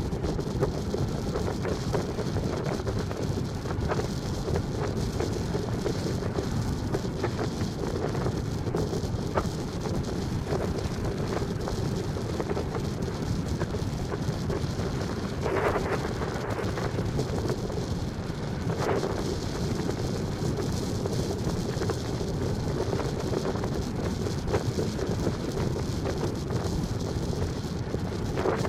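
Steady road rumble and wind noise from a moving vehicle, with wind buffeting the microphone and small knocks throughout.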